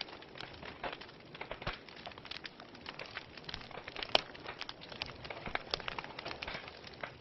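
Wood fire burning in a fireplace, crackling with irregular sharp pops over a steady hiss, one louder pop about four seconds in.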